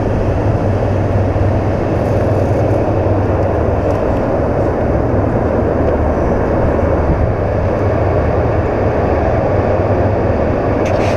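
Steady wind rush on the microphone over the low, even drone of a BMW R1200 GS Adventure's boxer-twin engine as the motorcycle is ridden.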